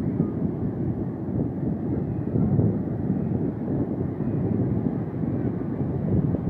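Heavy surf breaking, heard as a steady low rumble mixed with wind buffeting the microphone.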